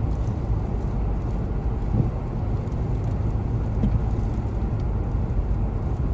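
A steady, loud, low rumbling noise with no clear rhythm.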